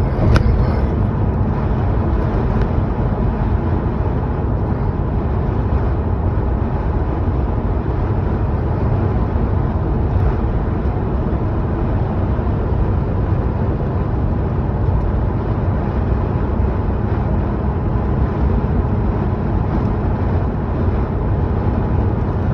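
Arden-tuned car being driven: steady engine and road noise at an even level, with a brief click about half a second in.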